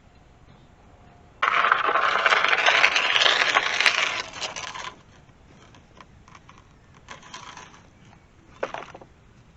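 Metal fence panel scraping and rattling for about three and a half seconds, with a rising screech of metal on metal in the middle. Lighter clanks follow twice near the end.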